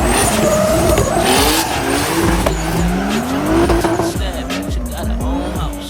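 Drift car's engine revving, its pitch rising and falling, with tyres squealing as the car slides, over background music.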